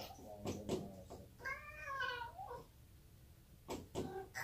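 Cat knocking on a closed door with its front paws, wanting to be let in: a few quick knocks just after the start and again near the end, with one meow in between.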